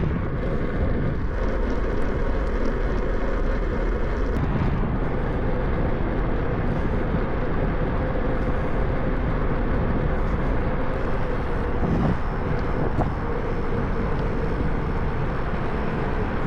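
Steady rumble of wind and road noise on a moving bicycle's camera, with a faint steady hum, shifting slightly about four seconds in.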